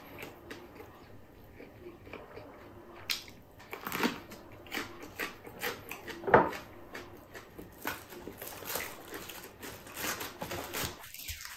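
Close-up mouth sounds of a person eating: chewing with many short crackles and clicks, the loudest about six seconds in.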